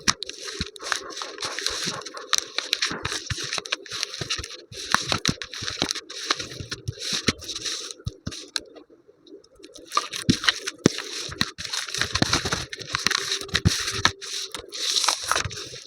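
Dry crunching and crackling with scraping, a dense run of small crisp clicks that pauses briefly a little over halfway through.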